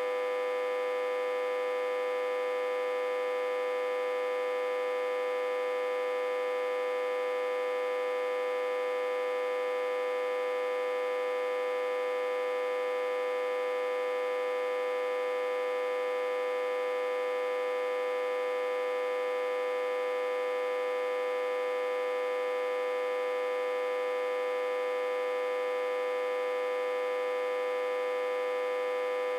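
Autotransformer humming steadily while reverse-connected to a step-down transformer with about 60–80 V input. A constant, unchanging hum with one strong mid-pitched tone and many overtones above it.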